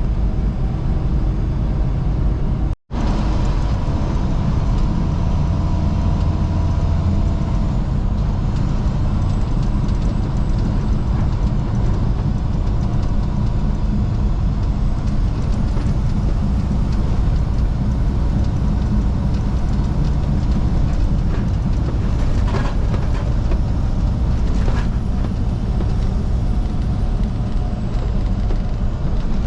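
Steady low rumble of a semi truck driving down the road, with a momentary cut about three seconds in.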